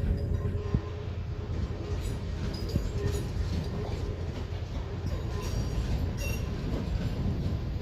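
Train moving on the rails: a steady low rumble with a few sharp clicks and brief faint wheel squeals.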